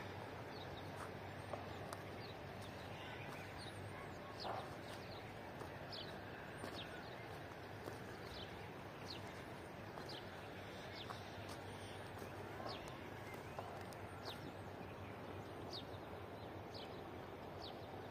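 Birds calling outdoors: many short, high chirps that drop quickly in pitch, scattered every second or so over a steady low background hum.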